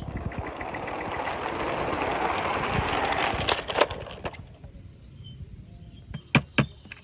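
Small toy car wheels rolling across a hard surface, building over about four seconds and ending in a few clicks. Near the end come two sharp knocks, like toys striking something.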